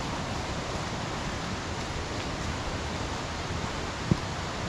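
Steady rushing of water from the burn and waterfall. A single brief knock comes about four seconds in.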